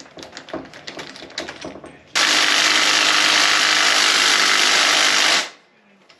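Aerosol spray paint can being shaken, its mixing ball rattling at about four or five clicks a second. About two seconds in, one steady spray hiss starts and lasts about three seconds, then cuts off sharply.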